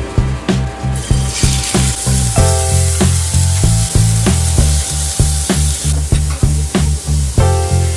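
Cubed chicken breast sizzling as it fries in hot oil in a frying pan; the sizzle sets in about a second in. Background music with a steady beat plays throughout.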